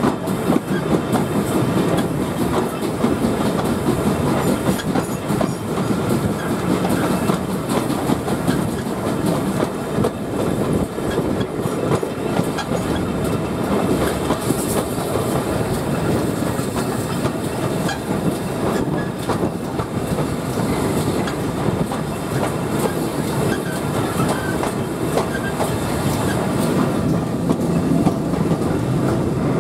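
Steam-hauled heritage train running, heard from a carriage window just behind GWR Castle-class locomotive 4079 Pendennis Castle: a steady rumble of wheels on the track with clickety-clack over the rail joints.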